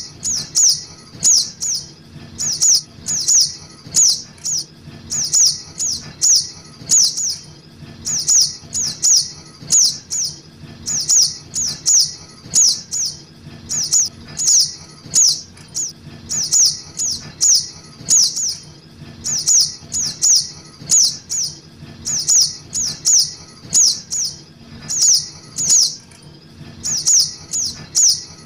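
Recorded lure call of a juvenile sogok ontong (spiderhunter): high, sharp chirps in quick clusters of three or four, repeating about every second and a half without a break.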